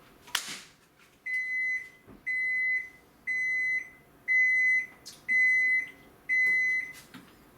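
AQUA washing machine's beeper sounding six even beeps, about one a second, at the end of the recording, the signal that the wash cycle has finished. A short click comes just before the beeps.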